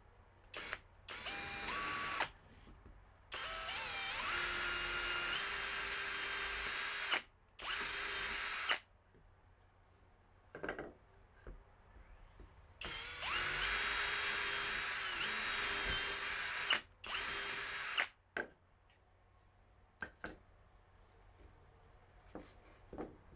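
Power drill boring holes through MDF in several runs: a few short trigger squeezes, then two long runs of about four seconds each, the motor pitch climbing as each run starts.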